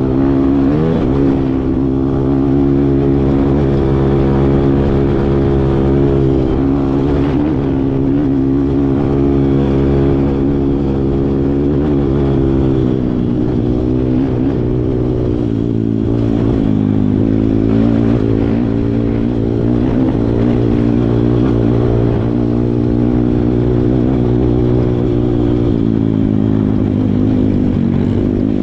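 Kawasaki KLX140 dirt bike's single-cylinder four-stroke engine running continuously while riding, its pitch rising and falling gently with the throttle.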